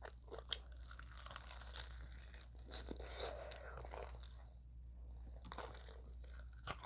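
A person chewing extra crispy fried chicken: quiet chewing with a few sharp crunches scattered through.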